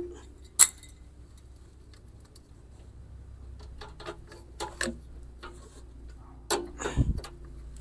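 Sharp clicks and light metallic ticks of a lawnmower's bail cable and handle parts being fitted by hand, with a louder knock and a low thump near the end.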